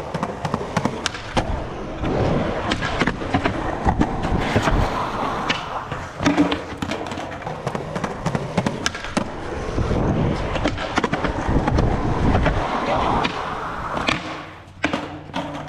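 Skateboard rolling over pavement, its wheels making a steady rumble dotted with many clicks and knocks of the board. The rolling stops about fourteen seconds in, followed by a couple of sharp wooden clacks.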